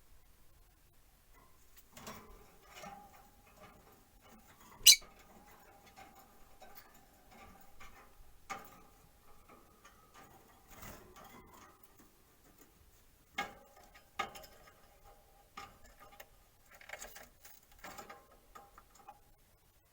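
Peach-faced lovebirds making small clicks, taps and scratching sounds, with one sharp, short, high chirp about five seconds in and a couple of louder clicks later on.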